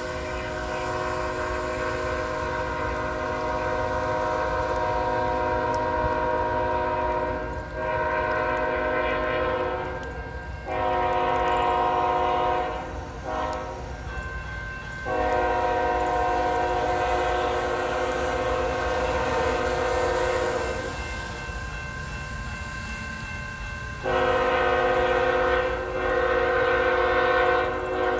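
Freight locomotive's multi-note air horn sounding a series of long blasts with brief breaks, with the low, steady rumble of the moving train underneath.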